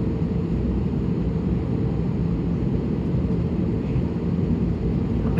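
Steady cabin noise inside an Airbus A320neo on the ground before take-off: a low, even rumble from the engines and the air system, with a faint steady tone above it.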